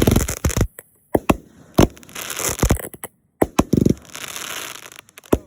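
Fireworks going off: a string of sharp bangs, with stretches of crackling hiss around two seconds in and again from about four seconds, and a deeper boom just before four seconds.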